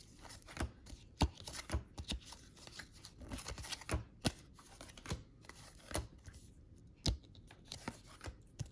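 Trading cards being handled and sorted by hand: irregular light taps and short slides as cards are flicked through and set down on piles on a table.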